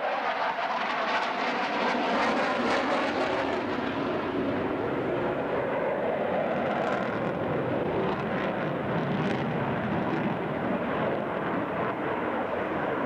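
Airplane engine noise during an airshow demonstration: a loud, steady rushing sound, with extra high hiss for a few seconds near the start.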